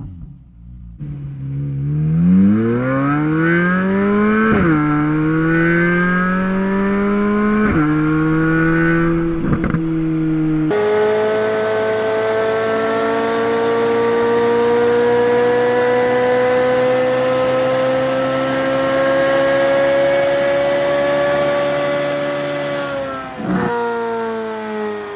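Chevrolet Corvette Z06 V8 engine and exhaust accelerating hard through the gears. Engine pitch climbs and falls back at upshifts about five and eight seconds in. Then, in a second run, it climbs slowly for about twelve seconds before another upshift near the end.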